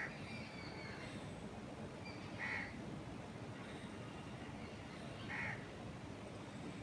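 A bird gives three short calls about two and a half seconds apart, over steady wind moving through trees.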